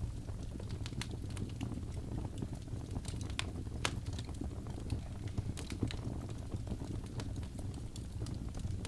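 Fire crackling: a steady low rumble of flames with irregular sharp pops and snaps, a few a second.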